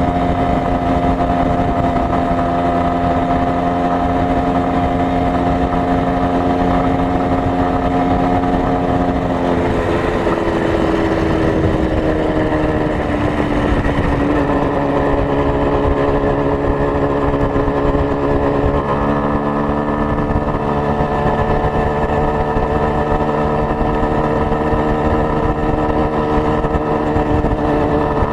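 Minsk 125 motorcycle's single-cylinder two-stroke engine running steadily; about a third of the way in its pitch drops, then slowly climbs again.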